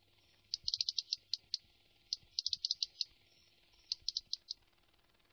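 Songbird giving short, high chirps in three quick runs of several notes each, about half a second, two seconds and four seconds in.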